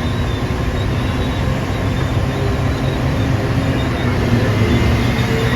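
Hitachi EX2500 mining excavator's diesel engine and hydraulics running steadily under load, a dense low rumble with faint steady whining tones above it.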